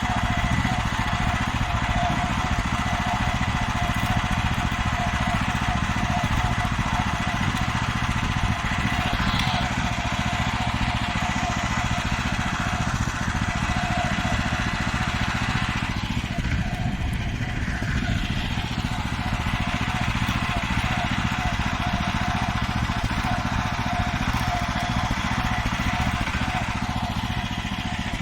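Farmer 1511 walk-behind tractor's engine running steadily while the machine drives along, with a steady whine over it.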